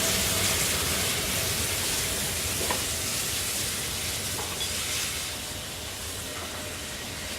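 Steady hiss of heavy rain mixed with steam from the A1 Pacific steam locomotive Tornado, slowly fading.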